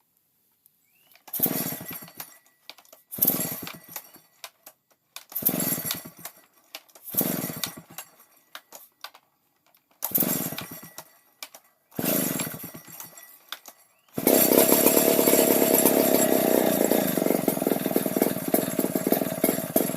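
Stihl 070 two-stroke chainsaw being pull-started with a flooded carburettor: six pulls about two seconds apart, each firing in a short burst that dies away, then about fourteen seconds in the engine catches and keeps running steadily.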